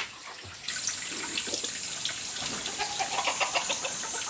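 Water starts running about a second in and keeps splashing steadily, with small drips and splashes.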